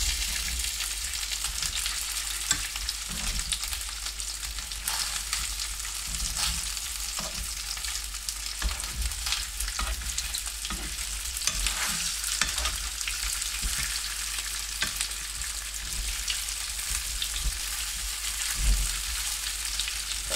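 Potato finger noodles and cornflake-coated sausages sizzling in hot oil in a frying pan, a steady hiss with frequent small crackles. Now and then a click or scrape as the food is stirred and turned in the pan.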